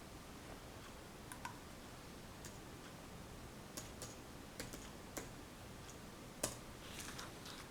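Pencil on paper while sketching: scattered light taps and short strokes, the sharpest tap about six and a half seconds in, then a brief run of scratchy strokes just after.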